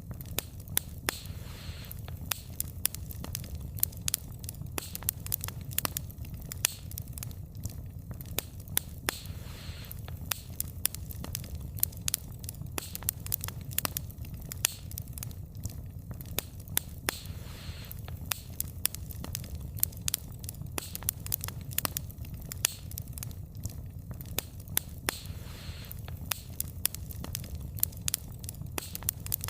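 Burning wood fire crackling, with frequent irregular sharp pops and snaps of the logs over a steady low rumble of the flames, and a soft hiss about every eight seconds.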